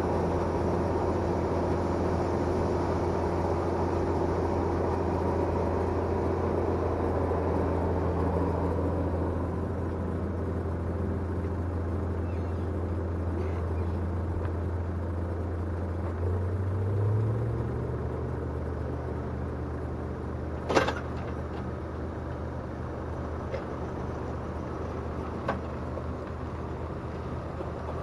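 Tractor engine running steadily, its note shifting upward about two-thirds of the way through, with one sharp click a few seconds later and a couple of faint ticks after it.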